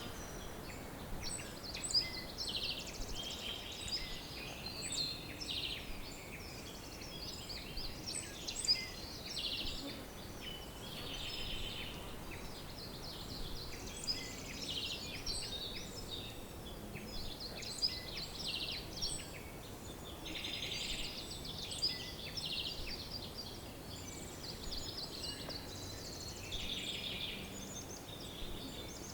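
A chorus of several songbirds singing and calling over one another throughout, with many short high chirps and fast trills, over a faint steady background hiss.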